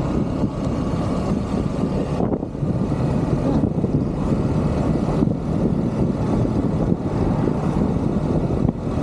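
Motorcycle on the move: steady engine, road and wind noise, with the high end dropping away abruptly a few times.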